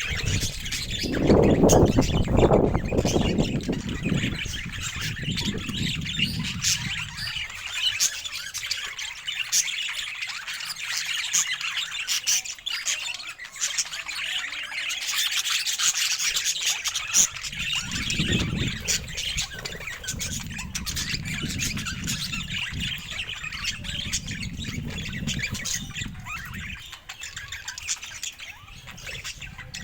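Pet parakeets chirping and chattering continuously with occasional squawks. Underneath runs a low rubbing noise, loudest in the first few seconds and again through much of the second half.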